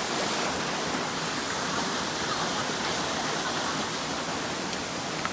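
Waterfall's steady rush of falling water, an even hiss with no break.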